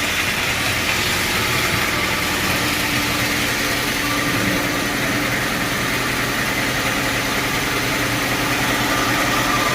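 Sawmill machinery running steadily without cutting: a constant mechanical drone with a steady hum.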